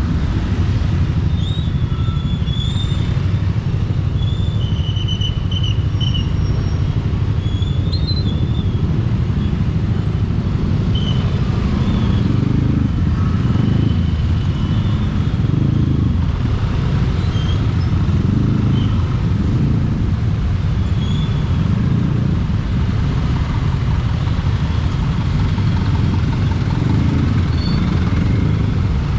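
Riding a motorcycle through traffic: a steady low rumble of wind on the action camera's microphone mixed with engine and road noise, swelling and easing unevenly. A few short high tones sound in the first half.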